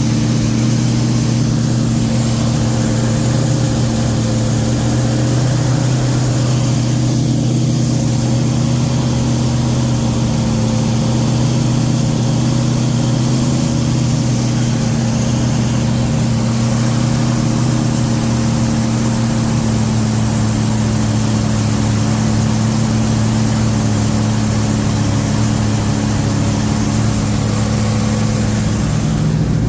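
Freshly rebuilt 440 Magnum big-block V8 in a 1973 Dodge Charger running at a steady speed during its break-in, with no rise or fall in revs.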